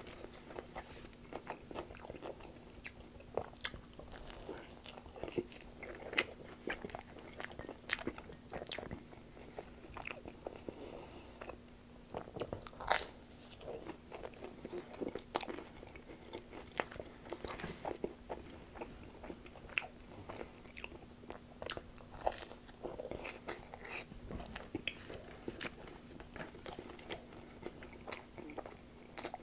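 Close-miked chewing and biting of pizza crust dipped in creamy dip, with irregular crunches and clicking mouth sounds.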